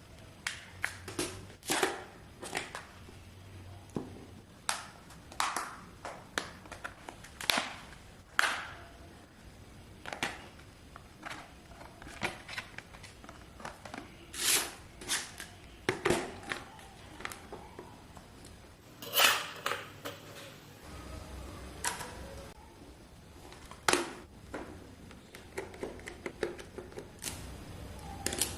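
Irregular clicks and taps of small repair tools against plastic and metal phone parts as a Xiaomi phone is worked on for a battery swap, with a couple of louder knocks.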